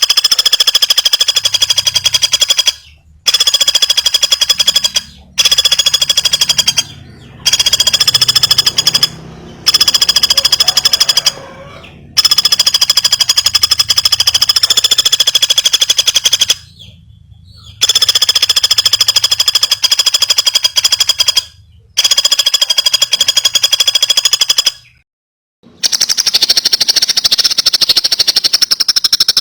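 A bird giving loud, high-pitched, very rapid rattling trills, repeated in phrases of a few seconds each with short pauses between them.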